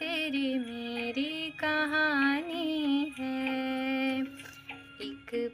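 A woman singing long, held notes with a wavering pitch, in several phrases with short breaks between them, with no clear words.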